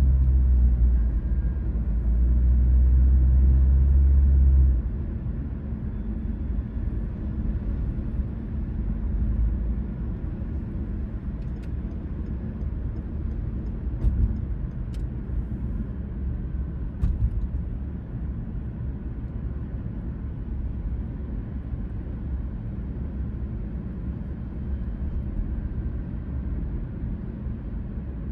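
Car driving on suburban streets: a low rumble of engine and road noise, heavy for the first five seconds or so, then settling to a lighter steady rumble. A few faint clicks come in the middle.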